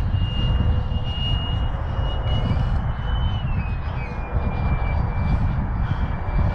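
Electric ducted fan of a 70 mm EDF radio-controlled BD5 jet in flight, a steady high whine that drops slightly in pitch about three seconds in, over a heavy low rumble.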